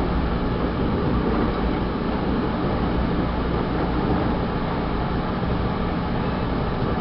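Vale passenger train running along the line, heard from inside a carriage: a steady rumble of wheels on the rails with no distinct rail-joint clicks.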